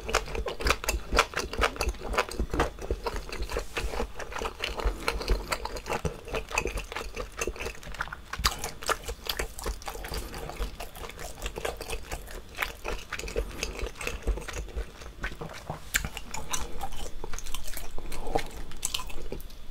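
A person chewing chewy seafood close to the microphone: a steady, irregular run of wet, sticky mouth clicks.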